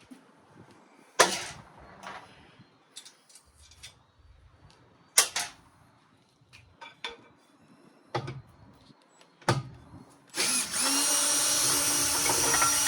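A few sharp metallic clanks of tools and saw parts being handled, then, near the end, a power drill running steadily for about two and a half seconds, unscrewing a fastener from the radial arm saw.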